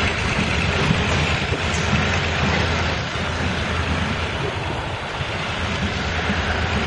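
Freight train wagons loaded with stone rolling past close by, hauled by a diesel locomotive. Their wheels make a steady rumble on the rails.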